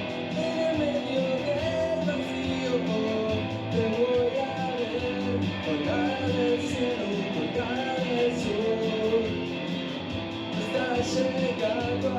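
Live indie rock band playing, with guitars carrying a wavering melody over the bass and rhythm, picked up as room sound.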